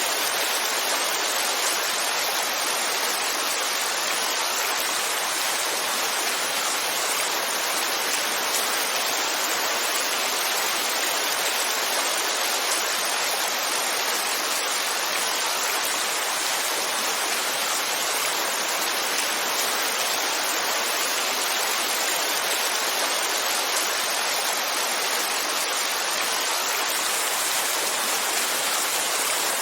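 Heavy rain falling steadily: a dense, even hiss with no breaks and little low rumble.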